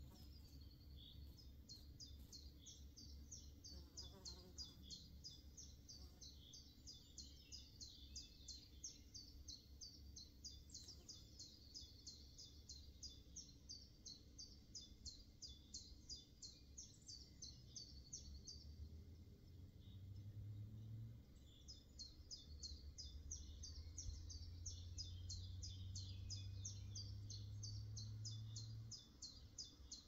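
A small songbird singing long runs of rapid, evenly repeated high chirps, several a second, breaking off briefly about two-thirds of the way through before starting again. A low steady drone sits underneath and grows louder twice in the second half.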